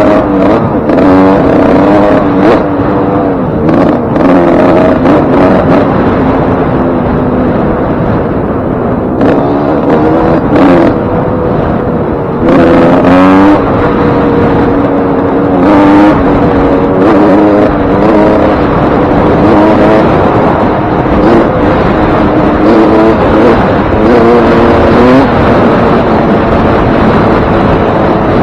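Suzuki RM125 single-cylinder two-stroke engine being ridden hard, its pitch repeatedly climbing under throttle and dropping back as it is revved and shifted. The engine has a freshly rebuilt top end: a new piston ring and wrist pin.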